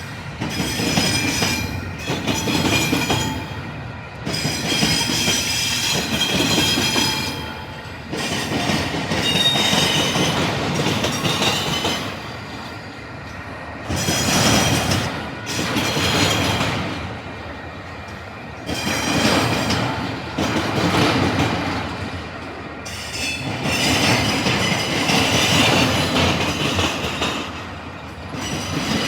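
Intermodal freight cars rolling past on a Union Pacific train, wheels clattering over a rail diamond crossing, with the loudness rising and falling in a repeating pattern, often in pairs. Steel wheels squeal against the rails at times.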